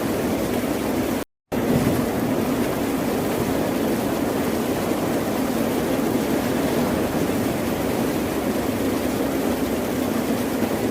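Ocean surf, a steady dense rush of breaking waves with no single wave standing out. About a second in it cuts out completely for a moment, then resumes.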